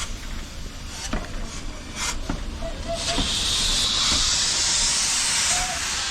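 WW1-era steam locomotive letting off steam: a loud, steady hiss starts about three seconds in and lasts about two and a half seconds before easing off, over a lower background hiss with a few short knocks.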